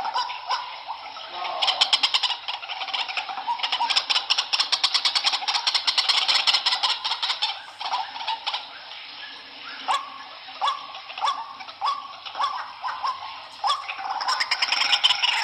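White-breasted waterhen (ruak-ruak) calling: a fast rattling run of croaks through the first half, then a string of short rising 'kruak' notes about every half second, crowding together near the end.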